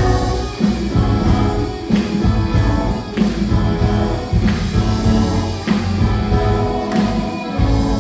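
A live church praise band plays the instrumental introduction to a worship song. Drums keep a steady beat under bass guitar, keyboards and electric guitar.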